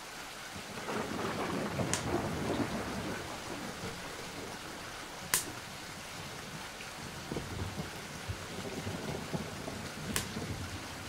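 Steady rain with a rolling rumble of thunder swelling about a second in and fading after a few seconds. Three sharp cracks cut through it, the loudest near the middle.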